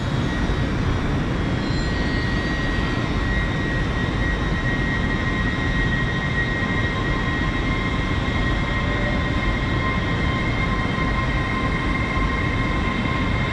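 Class 801 electric multiple unit pulling out of the platform: a steady rumble with a high, steady whine from its electric drive, joined by a second, lower whine past the middle.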